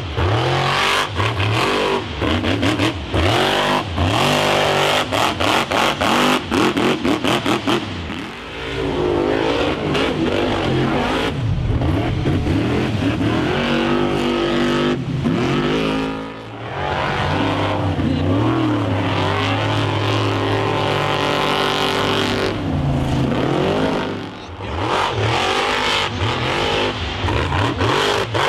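Monster truck engine revving hard, its pitch sweeping up and down again and again, with stretches of rapid stuttering cut-outs near the start and the end.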